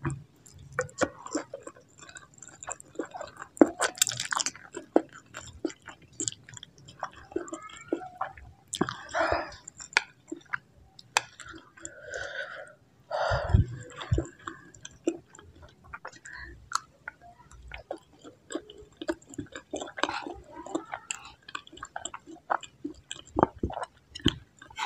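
Close-miked chewing of a mouthful of instant noodles, with many small wet mouth clicks. Two louder, fuller mouth or breath sounds come around 9 and 13 seconds in.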